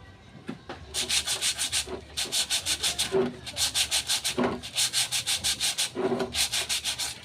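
Brake drum's raised edge lip being sanded down by hand with sandpaper: quick back-and-forth scraping strokes, about eight a second, in five short runs with brief pauses between them.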